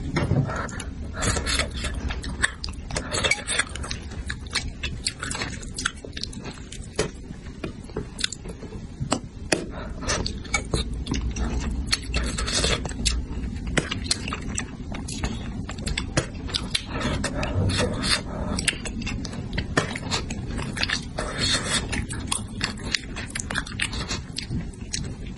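Close-miked chewing and biting of spicy braised crucian carp: a dense, irregular run of quick wet mouth clicks and smacks.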